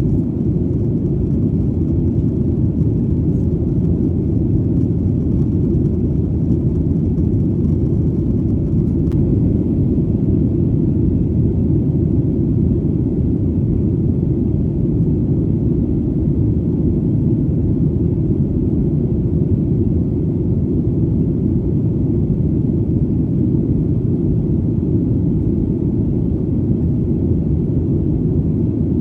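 Steady, deep drone of an airplane in flight: a dense, unchanging low rumble with little high sound.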